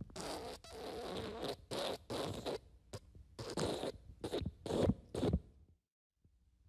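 Fart sound effects: a run of short, rapid, raspy bursts, with one longer stretch in the first second and about ten quick ones after it.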